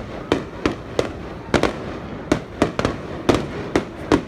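Fireworks display: a quick, irregular run of sharp bangs, about three a second, over a continuous rumble of further bursts.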